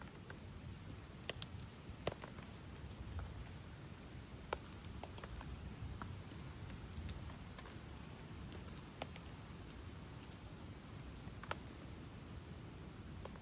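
Steady rain with a campfire crackling: a handful of sharp wood pops, the loudest about a second and a half in.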